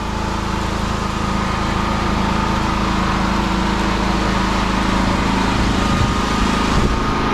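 Firman T07573 tri-fuel portable generator engine running steadily.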